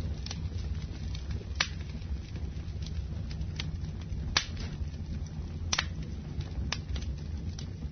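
Wood fire burning in a fireplace, crackling with sharp pops about once a second over a steady low rumble of the flames.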